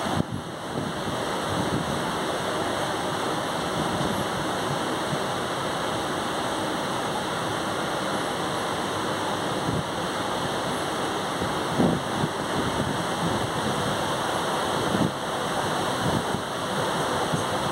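A moving passenger train's steady rushing noise, wheels on rails and wind past the carriage, with a few faint knocks in the second half.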